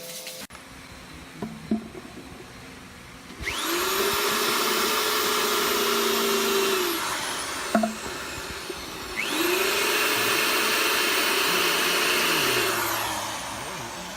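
Electric power tool run twice: each time its motor spins up, runs steadily for about three seconds, then winds down, with a click between the two runs.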